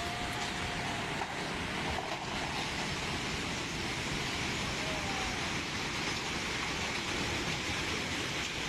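Hailstorm: a dense, steady rush of hailstones pelting down, with a few faint sharp clicks of stones striking hard surfaces.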